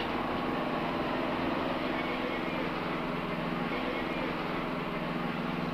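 Steady mechanical hum, several low tones held evenly over a background haze, without breaks or impacts.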